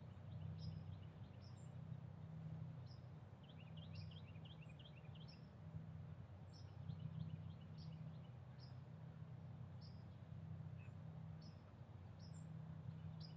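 Small birds chirping faintly, short high chirps about once or twice a second, with two bursts of quick trilling near the middle, over a steady low hum.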